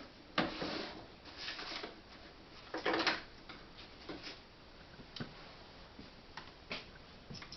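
Irregular rustling and light clicks of fabric and sewing-machine parts being handled: a few scuffling rustles in the first three seconds, then several sharp single clicks.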